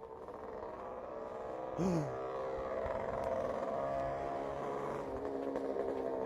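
A vehicle engine running with a steady pitched hum that grows gradually louder, with a brief sound falling in pitch about two seconds in.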